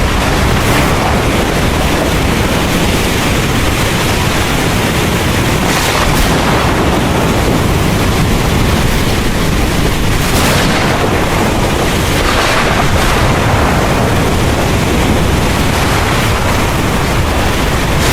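Heavy rain pouring steadily under a deep, continuous rumble of thunder, with a few brief surges about six and ten seconds in.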